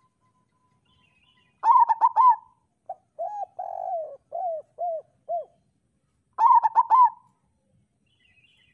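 Zebra dove (perkutut) cooing: a quick run of staccato notes, then about six lower, falling coos, then another quick run of staccato notes.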